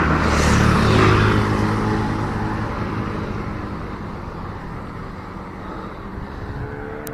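A motor vehicle passing close by on the road: its engine swells to loudest about a second in, then fades away as its pitch drops. A single sharp click comes right at the end.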